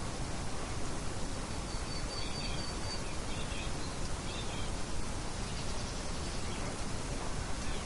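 Steady outdoor nature ambience: an even rushing hiss with faint bird calls over it, a thin held high whistle followed by a few short chirps in the first half.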